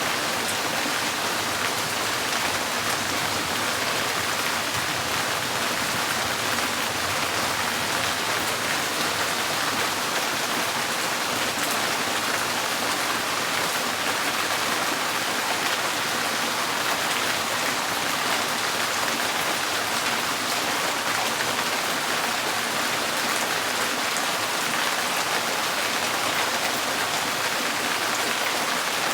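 Steady rain drumming on a tin porch roof, a dense, even patter of drops.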